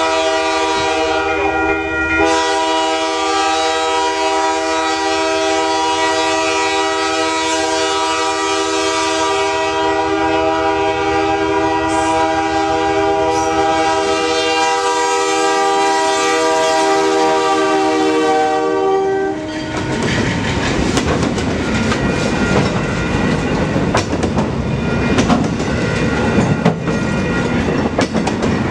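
The horn of a former Canadian Pacific C424 diesel locomotive sounds a steady multi-note chord, held almost without a break for about twenty seconds as the train approaches the grade crossing. The horn cuts off as the locomotive passes, and then loaded flatcars roll over the crossing with a rapid clatter of wheels over rail joints.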